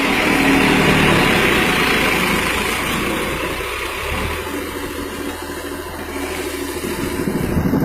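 Massey Ferguson 7250 tractor's diesel engine running steadily, dropping slightly in loudness midway and growing louder again near the end.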